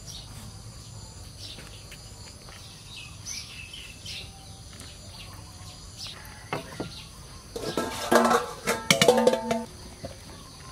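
Small birds chirping faintly, short high falling calls, then a louder two-second burst of sound with held tones near the end.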